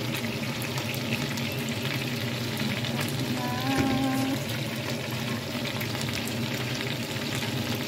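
Stuffed boneless chicken wings frying in a nonstick pan: steady sizzling with fine crackles.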